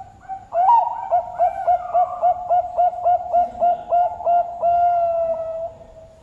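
Zebra dove (perkutut) singing: a quick run of about fifteen short coos, some four a second, closing on one long held note.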